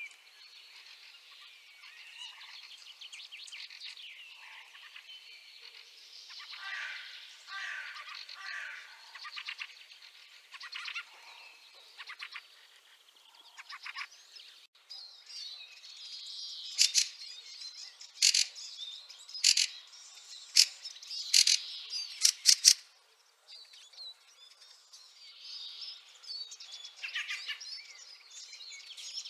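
Fieldfares calling: soft twittering chatter throughout, with a run of loud, sharp, harsh chacking notes in the middle.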